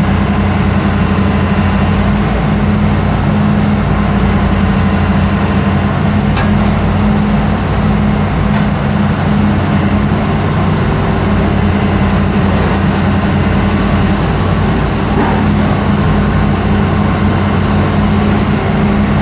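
Diesel engine of a bored-pile drilling rig running steadily with a low, even hum.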